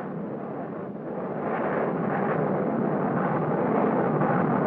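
Aircraft engine noise: a steady rushing sound that grows louder about a second and a half in and cuts off abruptly at the end.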